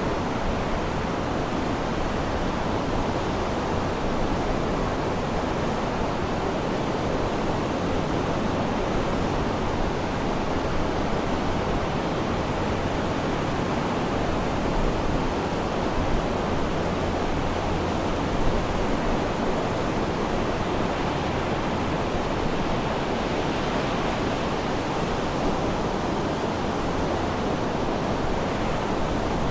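Sea surf washing in a steady, even rush with no distinct wave breaks.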